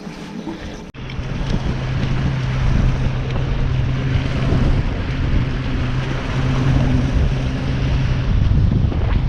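Boat motor running steadily under a heavy rush of wind on the microphone, starting abruptly about a second in.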